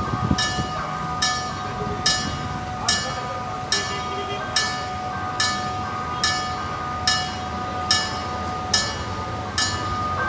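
Railway sound at a train station: steady tones under a sharp metallic strike that repeats evenly a little more than once a second.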